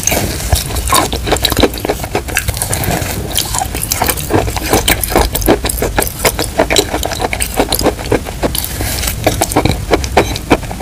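Close-miked chewing and crunching of chalk crumbs and wet chalk paste: a dense, continuous run of crisp crunches and mouth clicks, several a second.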